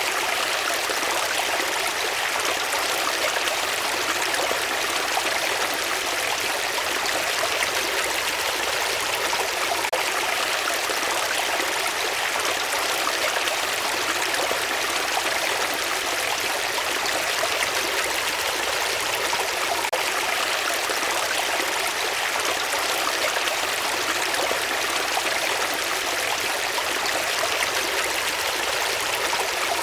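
Running water flowing steadily, an even, unbroken rushing with no pauses or separate splashes.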